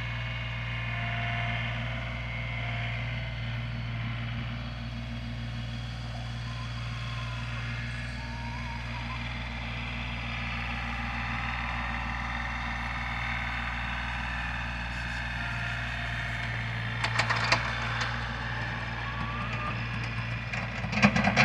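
An engine running steadily, with a few sharp clatters about three-quarters of the way in and louder clattering right at the end.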